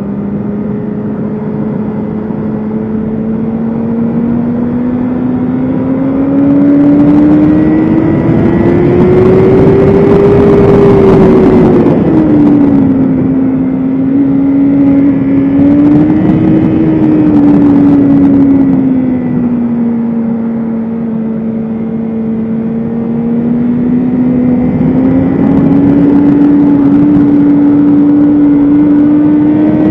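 BMW S1000RR inline-four engine running hard on a racetrack, its pitch climbing steadily for about ten seconds, then dropping quickly about twelve seconds in. It rises and falls a little, dips lowest a little after twenty seconds, and climbs again near the end, with a rush of wind noise loudest around the highest pitch.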